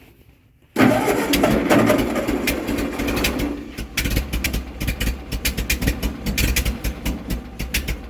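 Ford 8N tractor's four-cylinder engine being cranked over in −17 °F cold. The sound begins suddenly about a second in, and from about four seconds it turns into a rapid, uneven chugging.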